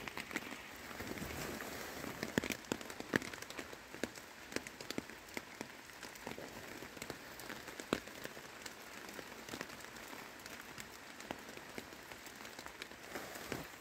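Rain falling on a hammock tarp overhead: a steady hiss dotted with many irregular sharp taps of drops hitting the tarp.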